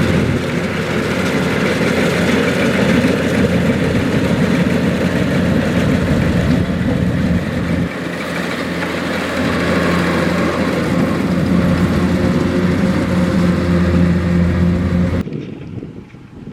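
Kubota DC-105X rice combine harvester running, a steady engine and machinery drone, which cuts off suddenly near the end.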